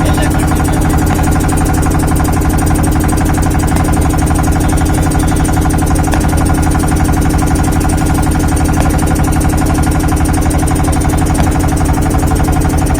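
A loud, steady mechanical hum, like an idling engine, that does not change in pitch or level.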